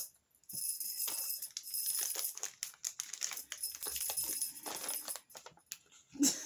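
Plastic snack packets rustling and crinkling as they are handled, with irregular small clicks and rattles.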